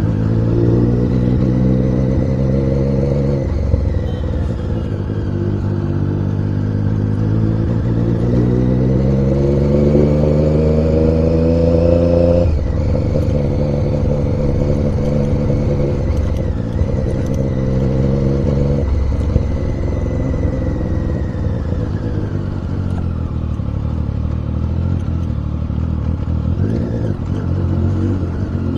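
A motor vehicle's engine pulling through the gears in traffic. Its pitch climbs steadily and then falls sharply at each upshift, three times, and it runs steadier near the end.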